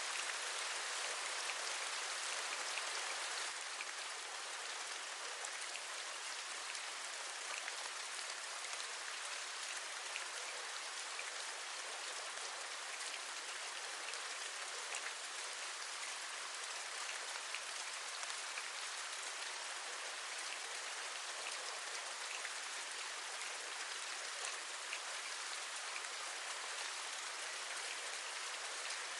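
Steady rain: an even hiss with a fine patter of individual drops, a little louder for the first few seconds.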